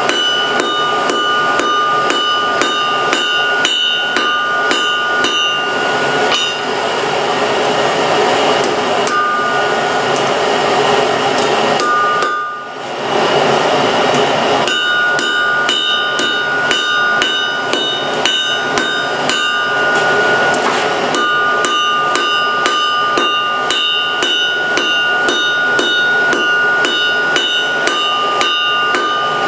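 Hand-hammer blows on hot steel at the anvil, about three a second, each leaving a bright ringing tone. The strikes pause briefly about halfway through, and a steady hiss runs beneath them.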